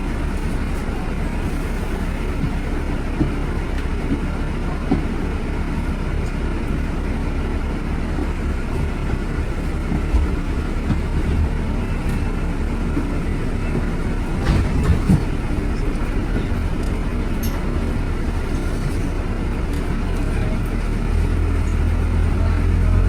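Steady low rumble of London traffic, with a few short knocks and clicks scattered through it; the low rumble swells slightly near the end.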